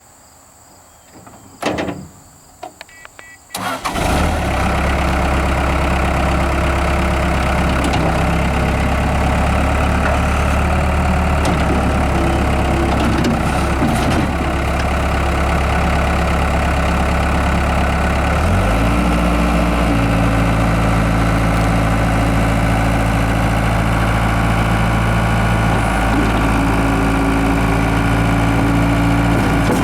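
Case 40XT skid steer's diesel engine: a few short clicks and a brief crank, then the engine catches about four seconds in and runs steadily. About halfway through, the engine speed steps up and holds at a higher steady pitch.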